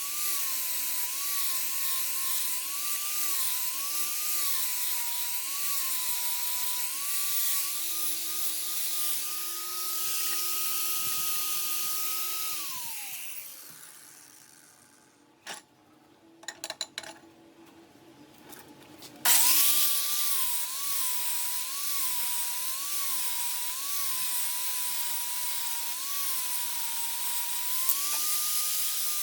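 Electric angle grinder grinding steel, its whine sagging and recovering about once a second as it is pressed into the work. About halfway through it is let off and spins down, a few light knocks follow, and it starts again sharply and carries on grinding.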